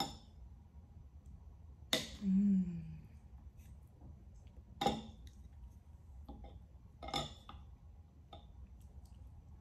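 Cutlery clinking against a plate while a steak is cut: four sharp clinks about two seconds apart. A short low hum comes just after the second clink.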